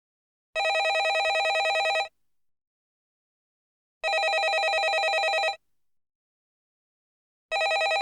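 Landline telephone ringing in repeated rings with a fast trill, each about a second and a half long with two seconds of silence between. Three rings, the last starting near the end.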